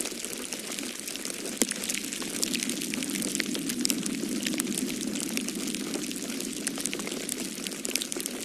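Fireplace log fire crackling, with frequent small sharp pops, over a low rushing noise that swells in the middle.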